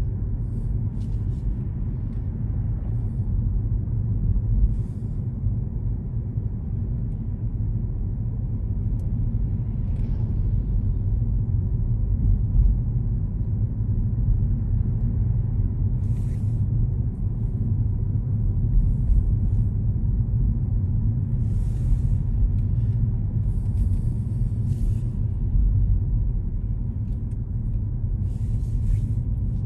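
Car driving, with a steady low road and engine rumble and a few short, faint hissy sounds scattered through it.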